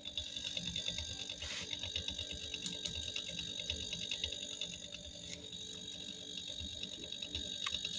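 GEM refrigerator running with a steady high whine over a fast mechanical rattle and a low hum, with a few brief clicks. It is the abnormal noise the fridge is making, its cause not yet known.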